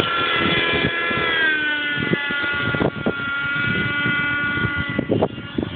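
Raptor 30 radio-controlled helicopter's small nitro glow engine running with a high whine, its pitch dropping about a second and a half in. Wind gusts buffet the microphone throughout.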